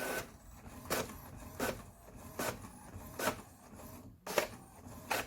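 HP OfficeJet Pro 8100 inkjet printer running, with a short scraping stroke about every 0.8 s.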